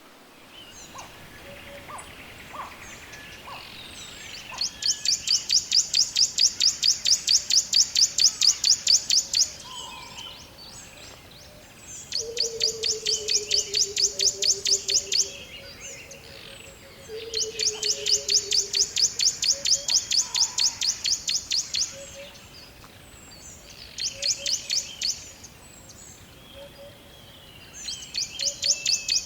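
Forest birds calling: a loud, high, rapid pulsing trill comes in bursts of a few seconds, five times, with softer chirps between and two low, drawn-out falling whistles in the middle.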